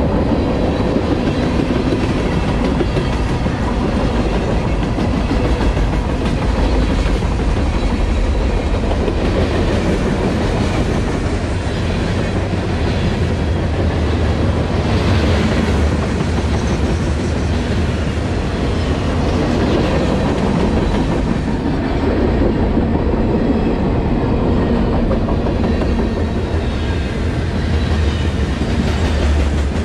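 CSX manifest freight train passing close by: a steady rumble of wheels on rail with clickety-clack over the rail joints, continuing without a break.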